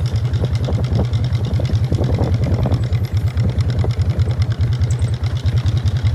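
Harley-Davidson 1999 Fat Boy's Evolution V-twin running steadily at low revs through Python mufflers, with an uneven, loping beat. Over it comes the rattling clatter of the open primary.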